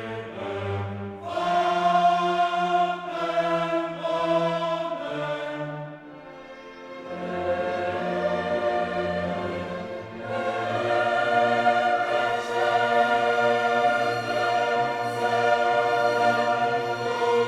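Background music: a choir singing held chords over an orchestra, thinning out briefly about six seconds in and swelling fuller from about ten seconds.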